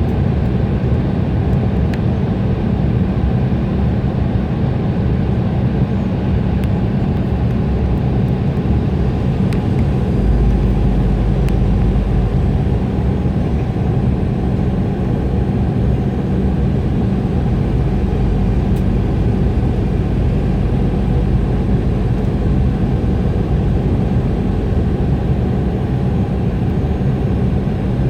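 Steady cabin noise of an Embraer E175 airliner in flight: the drone of its General Electric CF34 turbofans and the rush of air along the fuselage, with a deeper rumble setting in about ten seconds in.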